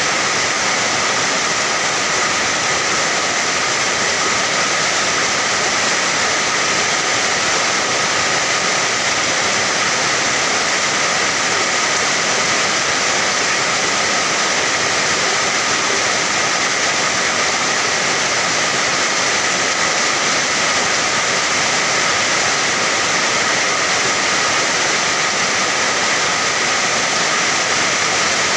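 Steady rain falling, an even unbroken hiss with no separate drops, thunder or changes.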